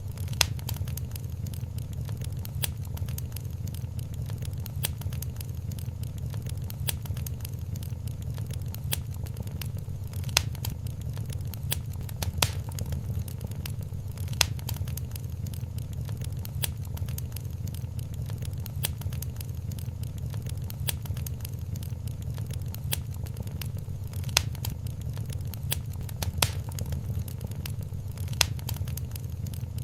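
Wood fire crackling in a fireplace: many small crackles and sharp pops, the louder pops every couple of seconds, over a steady low rumble of the flames.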